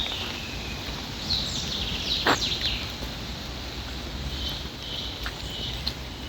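Small birds chirping in quick runs of short, falling high notes over a steady low background hiss. A single sharp tap comes about two seconds in.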